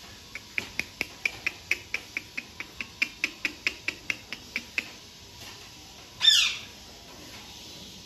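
A pet bird calling: a quick, even run of about twenty short high chirps, then after a pause one loud, short squawk.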